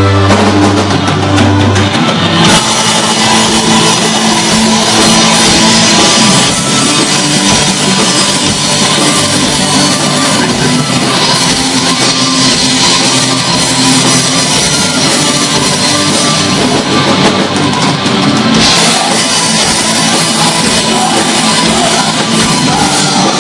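Black metal band playing live, with distorted guitars and drums. A held low chord gives way about two seconds in to dense, fast full-band playing.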